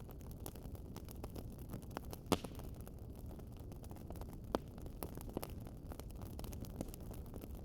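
Wood fire crackling in a fireplace: irregular small pops and snaps over a steady low rumble of the flames, with a louder pop about two seconds in and another about four and a half seconds in.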